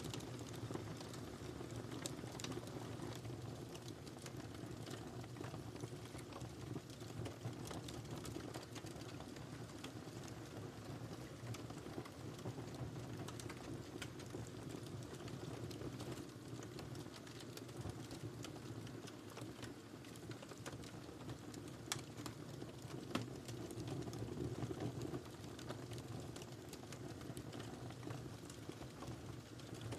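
Wood fire crackling in a fireplace: a steady low hiss of burning with many small irregular pops and snaps, and two louder pops a little past the middle.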